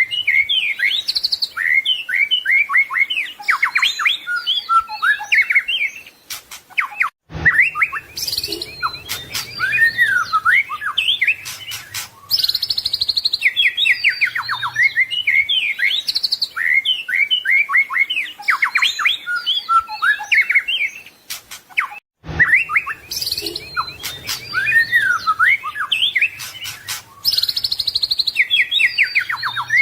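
White-rumped shama (murai batu) singing a fast, varied song of whistles, chips and trills packed with mimicked phrases. The song breaks off briefly twice and the same stretch starts over, as in a looped training recording.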